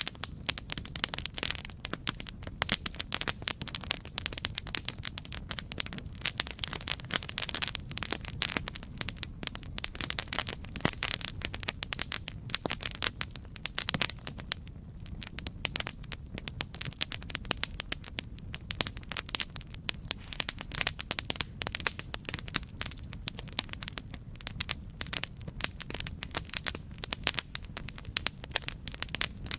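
Campfire crackling: a dense, irregular run of sharp pops and snaps over a steady low rumble of burning.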